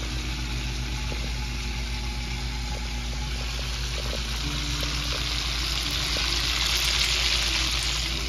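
Pieces of eel frying in hot oil in a wok, with a steady sizzle that grows louder about six seconds in, over a steady low hum.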